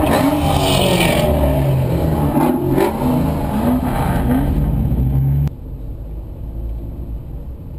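Ford Mustangs' engines revving and accelerating loudly, the pitch rising and falling. About five and a half seconds in, the sound drops suddenly to a quieter steady road rumble.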